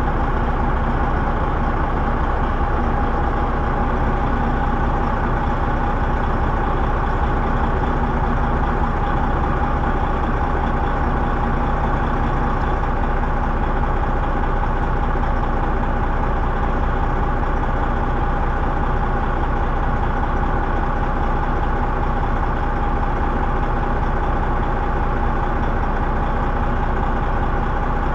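Semi truck's diesel engine running steadily, a constant low drone with a steady mid-pitched tone and no change in speed.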